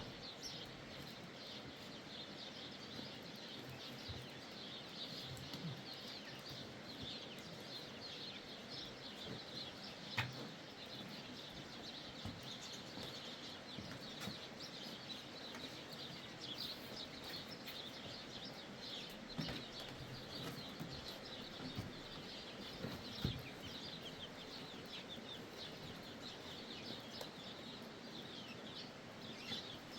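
Birds chirping steadily in a dense stream of short high calls, with an occasional knock.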